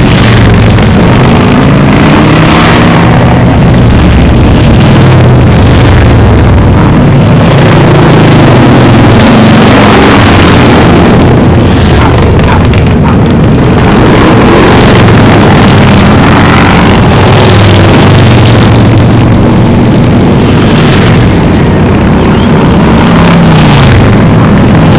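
A stream of motorcycles riding past one after another, engines running, their pitches rising and falling as each passes. Loud enough to overload the recording.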